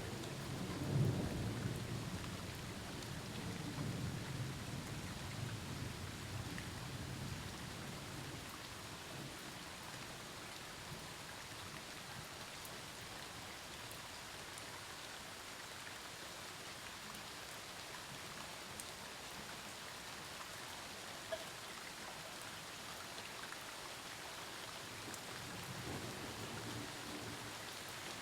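Steady rain falling with thunder rumbling low: a long rolling peal through the first eight seconds, loudest about a second in, and a fainter rumble near the end.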